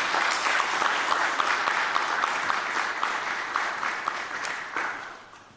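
Audience applauding, a dense patter of many hands that fades away about five seconds in.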